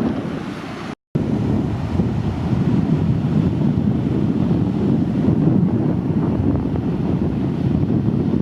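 Strong wind buffeting the microphone over the rumble of surf breaking on the beach. The sound cuts out completely for a moment about a second in.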